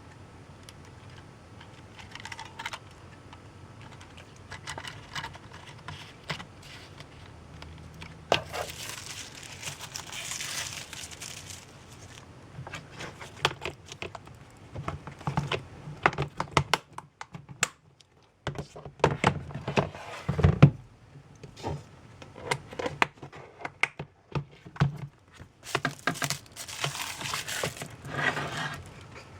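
Hands handling model-train packaging: a run of small plastic clicks and taps, with crinkling and rustling of wrapping a couple of times.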